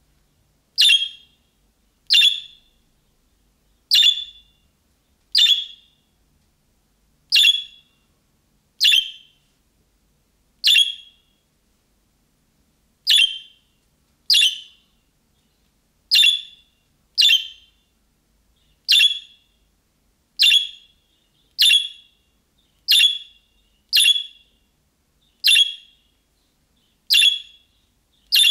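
Budgerigar giving short, sharp contact calls, one chirp every one to two seconds, about nineteen in all, starting about a second in.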